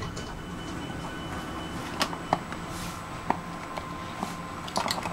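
Stockholm commuter train heard from inside the carriage as it runs: a steady low rumble with a faint steady whine and a few sharp clicks and rattles.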